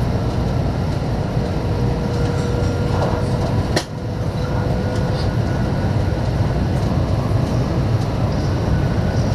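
Steady rumble of a Shinkansen train running at speed, heard from inside the passenger cabin, with one sharp click a little under four seconds in.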